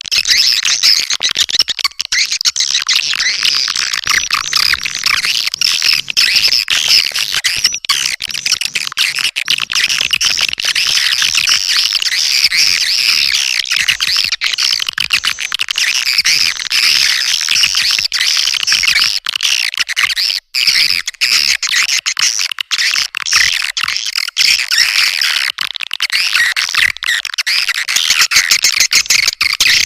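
Swiftlets twittering: dense, unbroken rapid chirps. This is a swiftlet lure call, a recording played to draw swiftlets into a nesting house.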